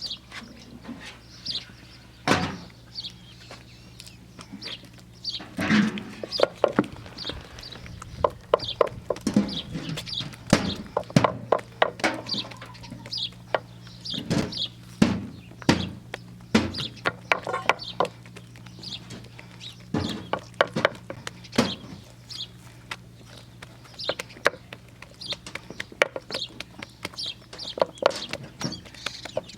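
Chickens clucking, with short high peeps throughout, among frequent sharp knocks and taps and a steady low hum.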